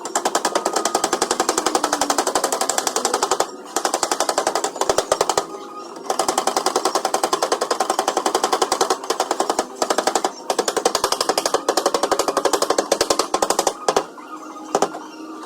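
Rapid hammering on a Ford Ranger's steel door panel to knock out a dent, about ten blows a second, in runs broken by short pauses.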